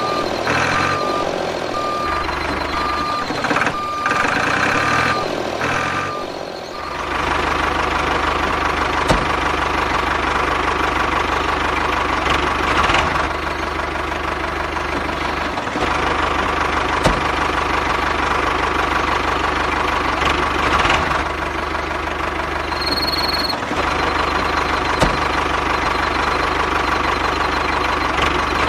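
Vehicle reversing beeps repeating evenly for about the first seven seconds. Then a vehicle engine running steadily, with a constant hum.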